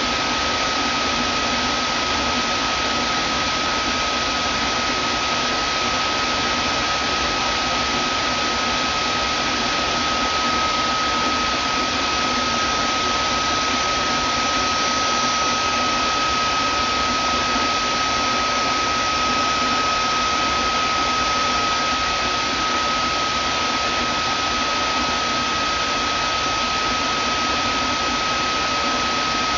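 Vacuum cleaner motor running steadily, a constant rushing noise with a steady high whine.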